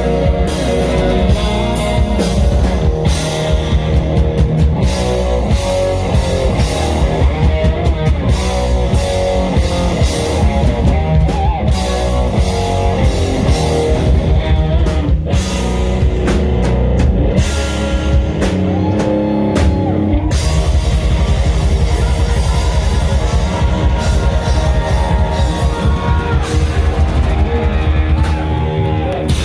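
Live rock band playing loud, with a drum kit and electric guitar; about twenty seconds in, the playing turns denser and steadier.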